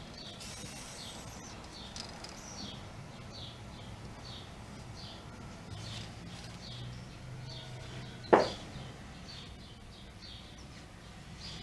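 A small bird chirping over and over in short, high, falling notes, about one or two a second. A single sharp knock, the loudest sound, comes about two-thirds of the way through.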